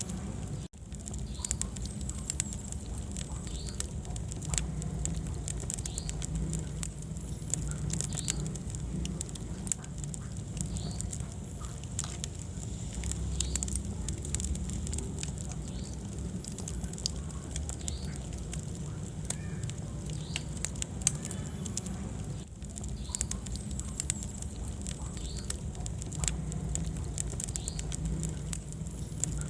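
Wood fire burning in a fireplace, crackling with frequent irregular sharp pops over a steady low rush of the flames. The sound briefly drops out about a second in and again a little after two-thirds of the way through.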